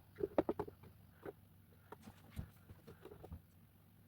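Light clicks and taps from handling 3D-printed plastic mask pieces while gluing them: a quick run of several clicks about a quarter second in, then a few single taps spaced about a second apart.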